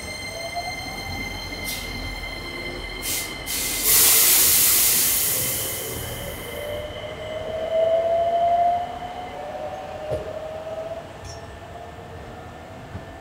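Hankyu electric commuter train at the platform: a loud burst of air hiss about four seconds in, then a motor whine that rises slowly in pitch as the train gets under way. Thin high squealing tones run underneath and stop about nine seconds in.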